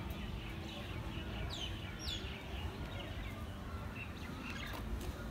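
Small birds chirping, with two quick down-slurred whistles about one and a half and two seconds in, over a steady low rumble.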